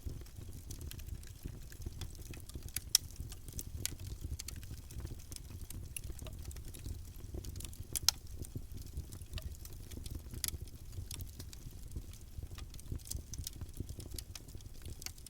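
Wood fire burning, with a steady low rumble of flames and scattered crackles and pops from the burning wood. The two sharpest snaps come about three and eight seconds in.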